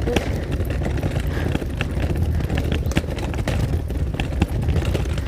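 Footsteps on pavement while walking, about two steps a second, over a steady low rumble.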